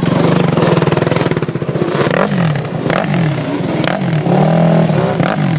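Dirt bike engine running, then revved up and down several times in the second half, with a few sharp clacks.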